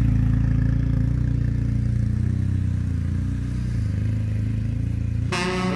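BMW R 1250 RT motorcycle's boxer-twin engine running steadily at low revs. Guitar music comes in near the end.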